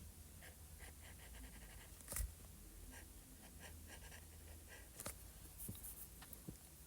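Faint scratching of a pen drawing a free body diagram, a run of short quick strokes, with a louder tap about two seconds in and another about five seconds in.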